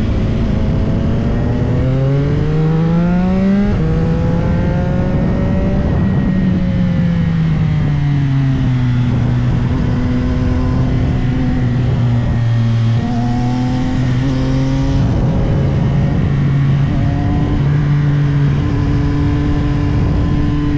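CFMOTO 675SR-R's inline-three engine pulling hard with its pitch climbing, then dropping sharply at an upshift a few seconds in. The revs then fall away under deceleration and hold fairly steady with a few small changes, over constant wind rush.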